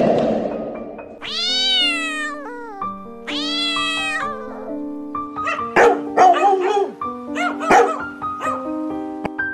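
A kitten meowing twice, two long drawn-out meows that rise and then fall, over background music with held notes. Near the middle a quick series of short, sharp barks follows from a dog.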